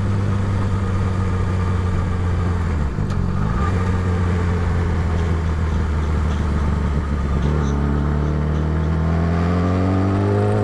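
Motorcycle engine running at a steady cruise, with a brief drop in pitch about three seconds in, then revs rising steadily from about seven seconds on as it accelerates.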